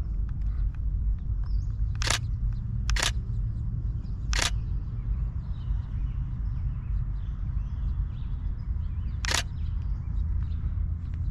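Camera shutter released four times as single shots: three clicks about a second apart, then one more a few seconds later, over a steady low rumble.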